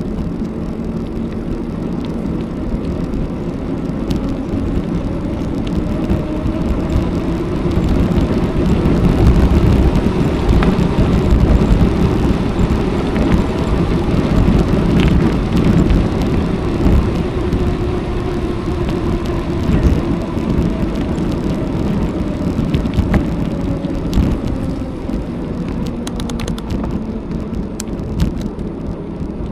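Wind rushing over an action camera's microphone, with bicycle tyres rolling on the road during a ride. It gets louder for a while in the middle.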